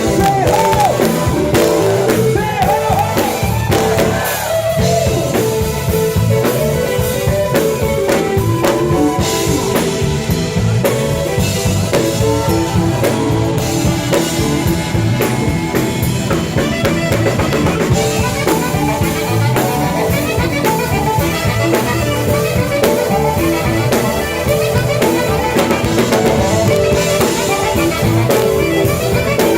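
Live band playing a blues-tinged groove on drum kit, bass, guitar and keyboards, with a lead line bending in pitch in the first few seconds.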